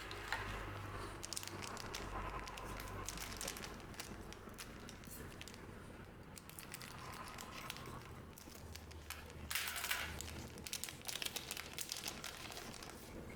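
A trading card booster pack's wrapper being handled and torn open: crinkling and crackling, loudest about ten seconds in.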